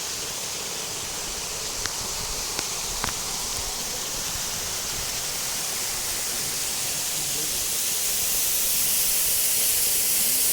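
Steady rushing of water, a waterfall or surf, a continuous hiss that grows gradually louder toward the end, with a few faint clicks early on.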